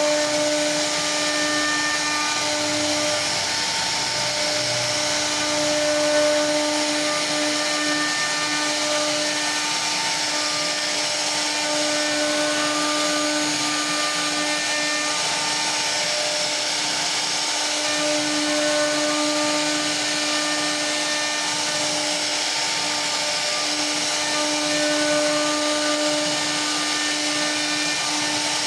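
CNC router spindle running steadily with a continuous whine over a hiss, dipping and wavering now and then, typical of the bit cutting wood.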